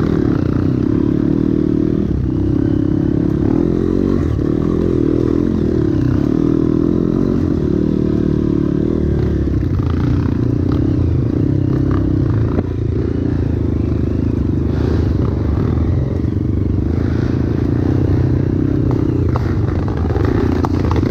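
Trail motorcycle engine running under way on a dirt trail, its revs rising and falling, with occasional short knocks.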